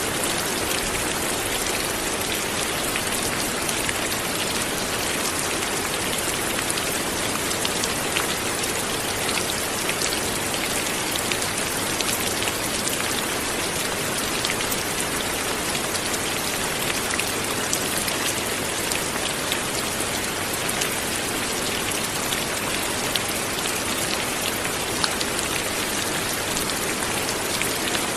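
Steady light rain falling, a continuous hiss sprinkled with many small individual drop ticks.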